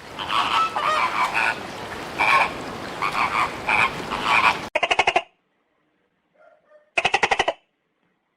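Frogs calling: a dense chorus of repeated calls over a noisy background for the first four and a half seconds. Then two separate half-second croaks, each a rapid run of pulses, about two seconds apart.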